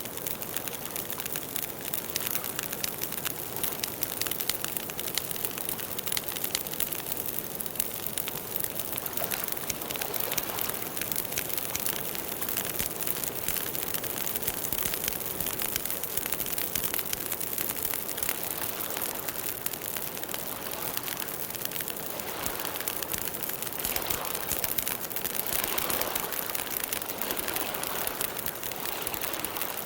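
Campfire burning with a dense, steady crackle of many small pops over a hiss.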